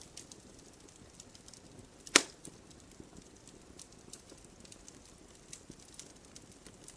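Fireplace fire crackling: scattered small sharp crackles, with one loud pop about two seconds in.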